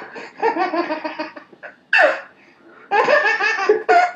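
A baby laughing in repeated bursts of belly laughter.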